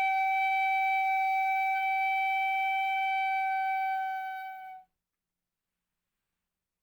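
Ryūteki, the Japanese gagaku bamboo transverse flute, holding one long steady note for about five seconds, then stopping abruptly into silence.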